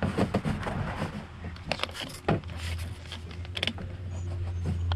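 Hands scrubbing stain remover into a cotton T-shirt lying on a plastic truck-bed liner: quick, irregular scratchy rubbing strokes, over a steady low hum.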